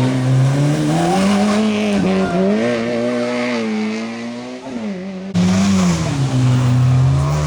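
Rally car engine at full throttle, its pitch climbing and dipping with gear changes and lifts off the throttle. About five seconds in the sound cuts abruptly to another engine already at high revs, with the pitch falling near the end.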